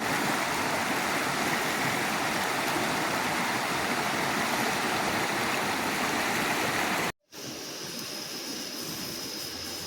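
Loud, steady rush of a waterfall on a swollen river. After about seven seconds it cuts off abruptly and gives way to a much quieter, steady hiss with a faint high tone.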